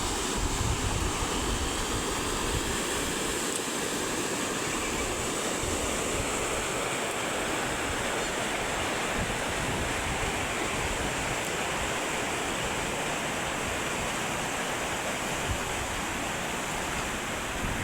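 Rushing floodwater from a rain-swollen river, a steady, unbroken rush of water.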